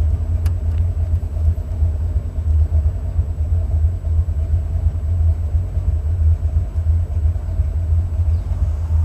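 Buick 455 Stage-1 V8 running with a steady, deep exhaust rumble, its header gaskets newly replaced so the exhaust no longer leaks. A single faint click about half a second in.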